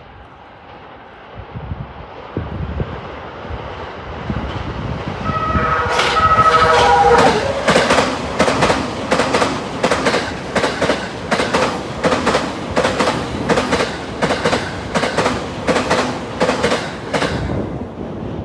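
Limited express electric train passing at speed: a rumble builds, a short stepped falling tone sounds about six seconds in, then wheels clatter over rail joints about twice a second, easing off near the end.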